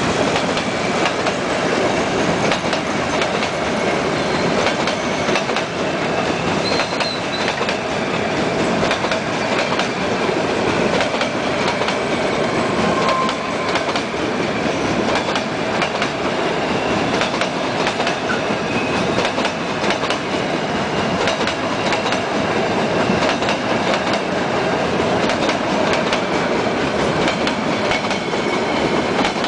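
Metre-gauge passenger coaches rolling past, their wheels clattering steadily over the rail joints.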